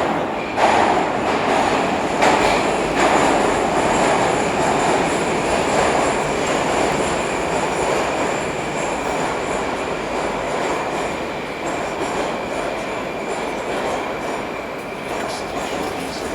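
Ezh3 metro train running through a tunnel, heard from inside the car: a loud, steady rumble of wheels on rails with a thin, steady high whine over it. The noise eases gradually through the second half.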